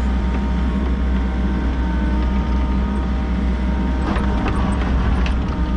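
Volvo EC60E mini excavator's diesel engine running steadily, with a few short scrapes and clinks about four to five seconds in.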